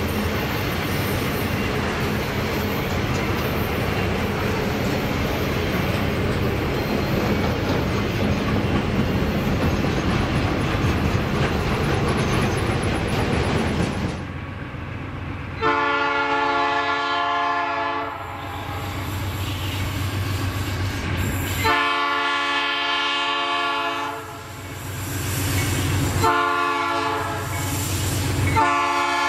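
Freight train rolling past with a steady rumble and clatter of wheels on rail. About fifteen seconds in, the diesel locomotive's horn sounds three long blasts of about two seconds each, with a fourth starting near the end.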